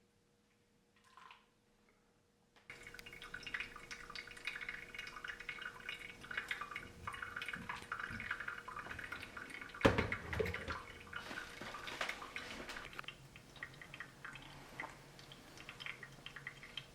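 Near silence, then about three seconds in water starts splashing and dripping, with many small clicks throughout and one sharp knock in the middle, the loudest sound.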